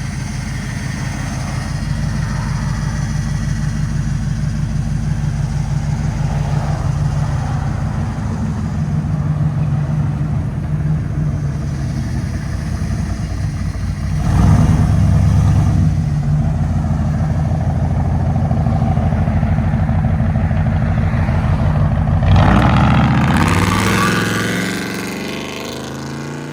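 Ford F-350's 460 V8 exhaust, with headers and Flowmaster Outlaw mufflers, running with a deep, steady pulse. It gets louder about halfway through, then rises in pitch under acceleration near the end and fades as the truck pulls away.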